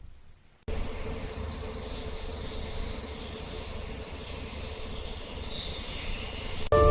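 Steady outdoor background noise with a low rumble and faint high chirping, starting abruptly after a brief silence. Music comes in right at the end.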